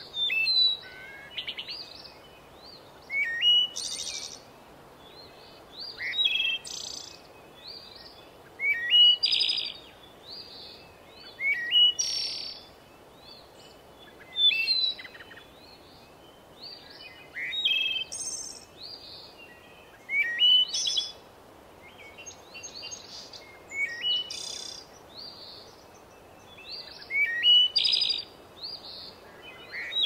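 A songbird singing the same short phrase again and again, about once every three seconds. Each phrase is a few quick high notes ending in a higher buzzy note. Fainter chirps from other birds come in between the phrases.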